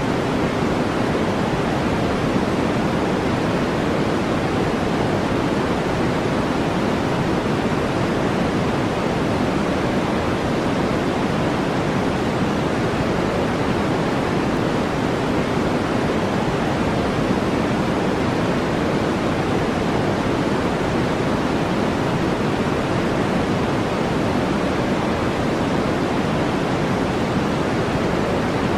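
Steady brown-style noise track: an even, deep hiss with its weight in the low-mid range, unchanging throughout.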